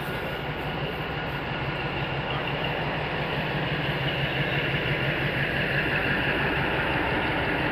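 Passenger train coach running on the rails as it pulls out of a station, heard from an open door. A steady rumble and hum that grows slightly louder as the train gathers speed.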